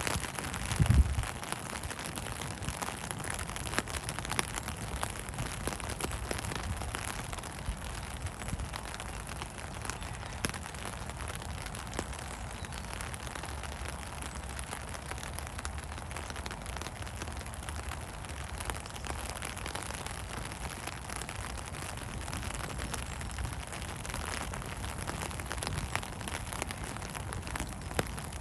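Steady rain falling: an even hiss dotted with many small drop taps. There is a low thump about a second in.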